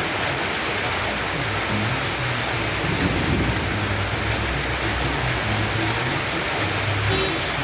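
Heavy rain pouring down in a storm, a dense steady hiss, with a brief low rumble about three seconds in.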